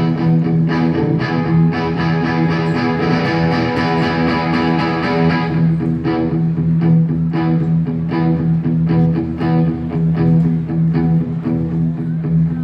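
Live pop band playing an instrumental passage without vocals: guitars over a steady drum beat.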